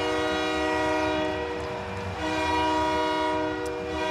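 Ice hockey arena goal horn sounding for a goal in long, steady blasts, breaking off briefly about two seconds in before sounding again.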